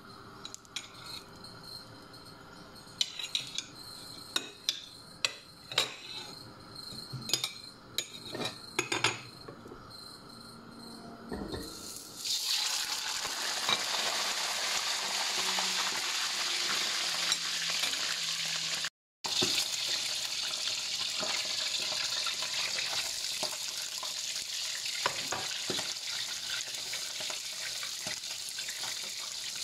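Sharp knocks and clatter of kitchen utensils, then, about twelve seconds in, a steady sizzle of hot oil as a whole fish fries in a wok. After a short break, sliced onions sizzle in oil in a frying pan, stirred with a wooden spatula.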